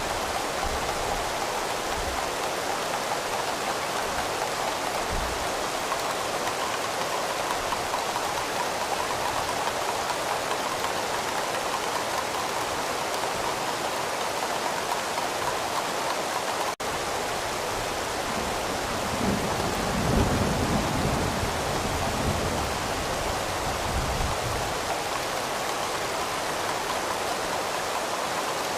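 Steady rain falling, with a low rumble of distant thunder swelling and fading about two-thirds of the way through. The sound drops out for a split second just before that.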